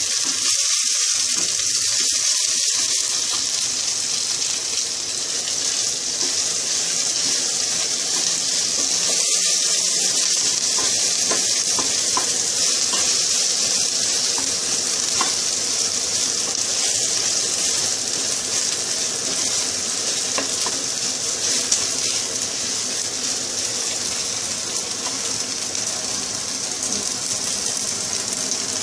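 Chopped ingredients sizzling steadily in hot oil in a pot, with a wooden spatula now and then scraping and stirring them.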